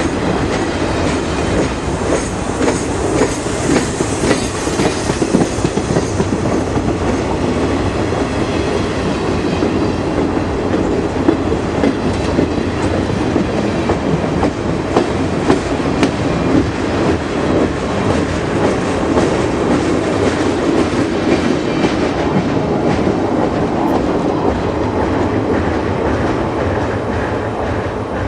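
Train cars rolling past, their wheels clacking over the rail joints over a steady rumble, beginning to fade near the end.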